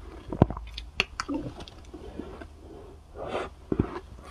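Close-miked mouth sounds of eating soft cotton ice: sharp clicks and wet chewing with breaths, then a spoon scraping and clinking in the bowl of ice near the end.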